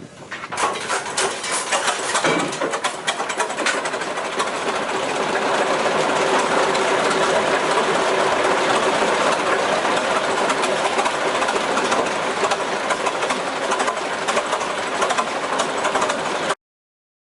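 Machinery running with a dense, rapid clatter that holds steady and cuts off abruptly near the end.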